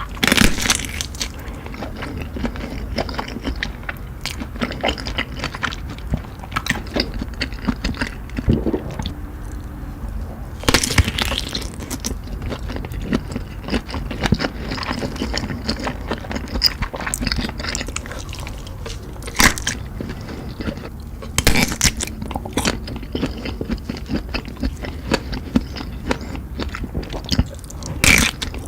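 Close-miked eating sounds: irregular bites, crunches and chewing, with a few louder crunches spread through.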